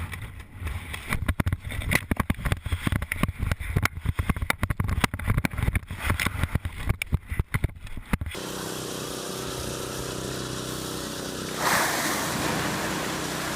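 Heavy wind buffeting on a body-mounted camera's microphone during skydiving freefall, gusting and thumping irregularly. It cuts off abruptly, and a steady engine drone takes over with a brief rush of noise near the end.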